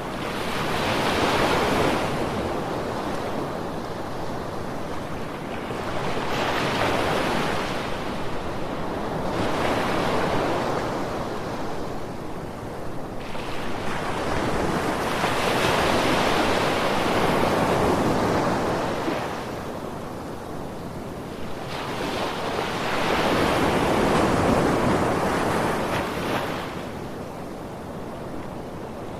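Ocean waves breaking and washing on a shore, swelling and fading in slow surges every few seconds, with some wind.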